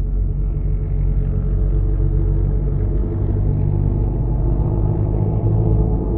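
Car sound reworked into a horror drone: a steady, deep rumble with several held low tones and a muffled top end.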